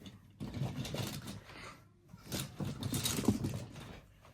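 Diecast toy monster trucks clattering and scraping against each other as a box of them is rummaged through, in irregular bursts.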